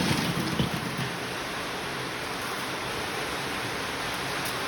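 Heavy rain drumming steadily on a shed roof, a loud even hiss.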